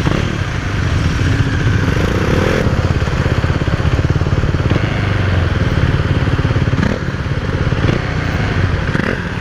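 A KTM 390 Duke's single-cylinder engine running steadily as the motorcycle is ridden.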